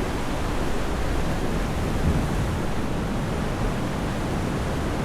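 Steady rushing noise of wind buffeting the microphone, mixed with ocean surf.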